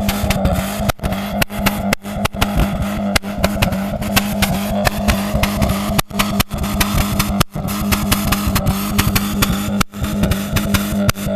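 Exhaust of a Mk2 with a 1.8 ABS four-cylinder engine running, a steady hum broken by many sharp pops and crackles.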